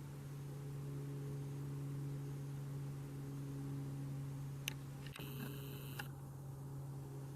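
A steady low electrical hum, with a sharp click just before five seconds in. A short high electronic beep follows for under a second and ends in another click.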